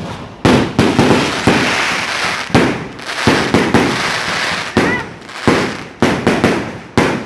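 Fireworks going off: a rapid, irregular run of loud sharp bangs, a dozen or more, with crackling between them and a brief faint whistle about five seconds in.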